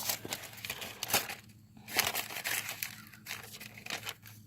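Irregular rustling and crinkling with scattered clicks and scrapes, coming in uneven bursts and loudest about two seconds in.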